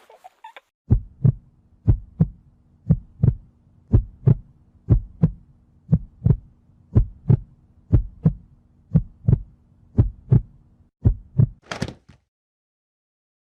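Heartbeat sound effect: a steady lub-dub double thump about once a second, over a faint low hum. A short sharp hit follows near the end.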